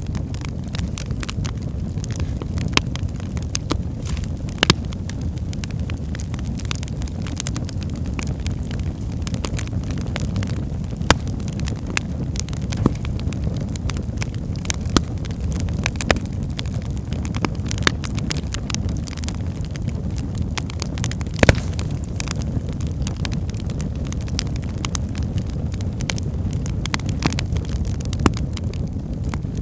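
Wood fire burning in a fireplace: a steady low rumble of flames with irregular sharp crackles and pops from the logs, a few louder snaps scattered through.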